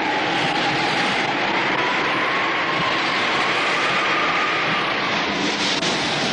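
Cartoon storm sound effect: a loud, steady rush of strong wind with a faint whistling tone that rises slightly.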